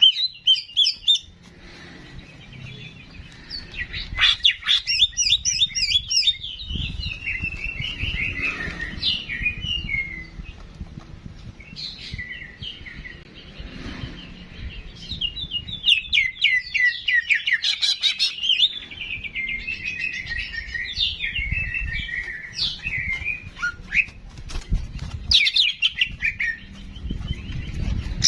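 A songbird singing in bouts of fast chirps and trills, with short pauses between phrases and a low rumble under part of it.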